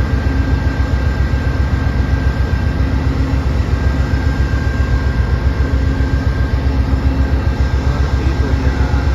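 Amtrak P42 diesel locomotive standing at the station with its engine running: a steady deep drone with a thin, steady whine above it.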